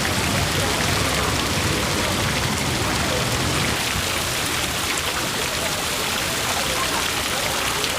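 Steady rushing noise that stays even throughout, with no distinct events.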